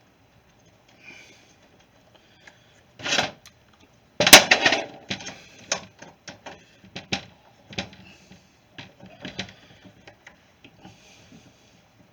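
Clicks and knocks of hand tools and small metal parts being handled at a workbench, loudest in a clatter a little past four seconds in, then a run of lighter clicks.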